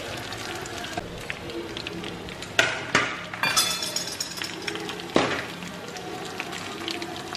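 Chicken bites deep-frying in hot oil in an iron kadai with a steady sizzle. A metal slotted spatula clinks sharply against the pan a few times: twice close together a little over two and a half seconds in, and once about five seconds in.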